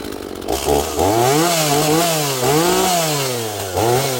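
Small two-stroke chainsaw engine, just started, revved up and down several times, about once a second, after it comes in sharply about half a second in.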